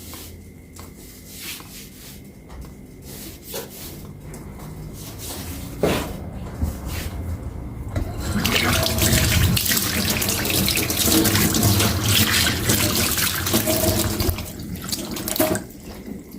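Kitchen sink work: scattered light knocks and clinks, then a tap running hard into the sink from about halfway, shutting off shortly before the end.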